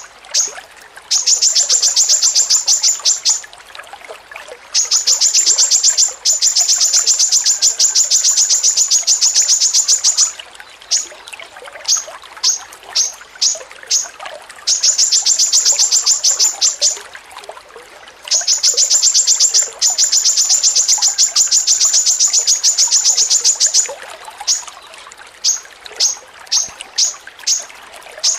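A small songbird's high, fast chattering trill. Even notes come at about ten a second in runs of two to four seconds, with stretches of single spaced chips in between.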